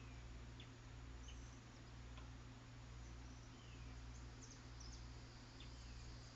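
Faint wild birds calling now and then: short high chirps and a few quick downward-slurred notes, with a faint high trill near the end, over a steady low electrical hum and hiss.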